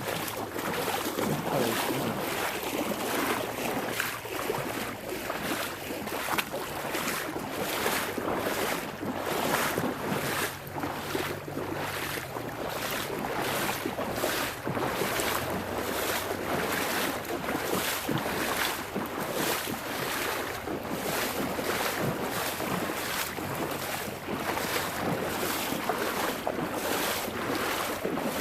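Footsteps wading through a shallow creek, splashing and sloshing at a steady walking pace of about two steps a second, over the wash of the water.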